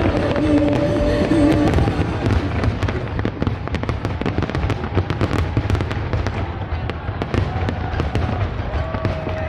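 Fireworks going off in rapid succession: many sharp pops and crackles over a steady low rumble.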